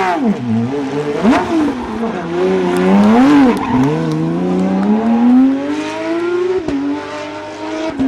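Rally car engine at full competition pace, its revs jumping up and down sharply a few times as it brakes and blips through a corner. It then pulls hard in one long rising run, drops suddenly on an upshift, and climbs again.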